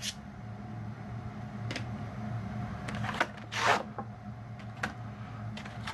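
Packaging being handled: a few sharp light clicks and one short rustle about three and a half seconds in, over a steady low hum.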